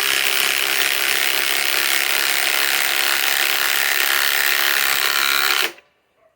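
Ryobi PSBIW25 compact cordless impact wrench hammering steadily as it drives a galvanized lag screw into wood, then cutting off suddenly near the end.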